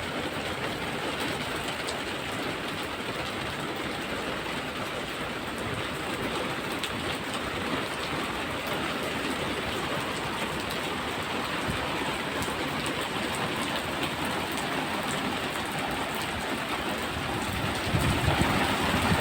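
Steady rain falling, an even hiss with fine scattered drop ticks. A louder low rumble rises near the end.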